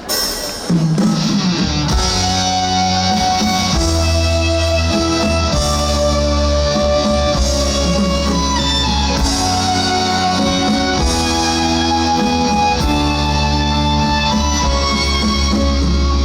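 Instrumental introduction of a trot song's backing track, starting suddenly under a second in: held melody notes over a steady bass line.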